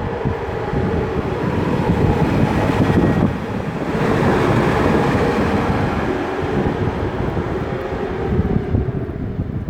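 Electric locomotive of CFR Class 40 (060-EA) on a shunting move: a loud, steady rumble with a faint hum, swelling through the middle, with wind buffeting the microphone.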